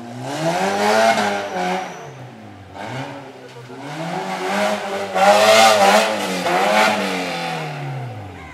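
Engine of a modified Maruti Gypsy revving hard as it drives through dirt pits, its pitch rising and falling in two surges: a short one at the start and a longer one from about three seconds in that holds and then drops away near the end.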